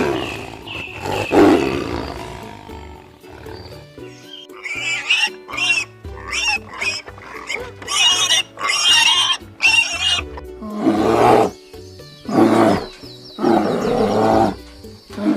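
A series of animal calls over steady background music. One call comes right at the start, a quick run of high-pitched calls follows in the middle, and several lower, louder calls come near the end.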